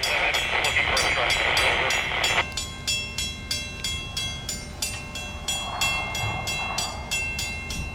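Diesel locomotives of a stopped freight train idling, with a low rumble and a steady whine. A hiss for the first two and a half seconds cuts off suddenly.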